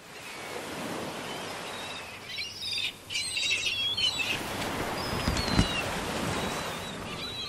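Small birds chirping, with a dense burst of chirps about two to four seconds in, then a few thin high whistles, over a steady outdoor hiss. A single dull thump comes about five and a half seconds in.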